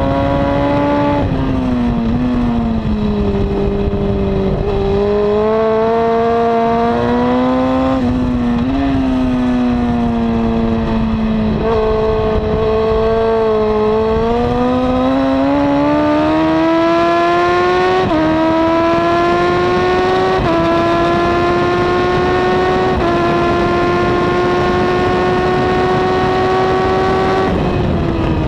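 2002 Honda CBR954RR's inline-four engine with a slip-on exhaust, running hard on track: the pitch drops off early as the bike slows, then climbs again. In the second half it pulls steadily upward through several gear changes, each marked by a sudden step in pitch.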